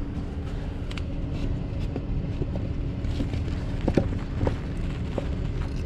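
Truck engine idling steadily, with a few short knocks over it, the clearest about four seconds in.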